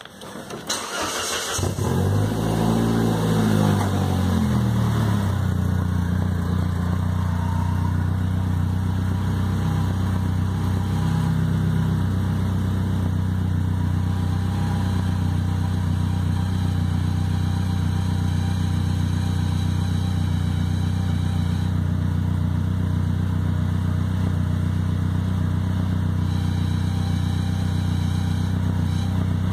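Saab car engine being started: a short crank, the engine catching about two seconds in and flaring up in revs, then settling to a steady idle.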